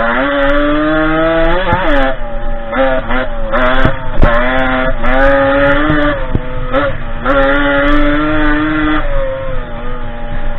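Derbi 50cc two-stroke engine of a dirt bike under way, revving up and easing off again and again as the throttle is opened and closed. There are three longer pulls in which the pitch climbs steadily, with short blips between them.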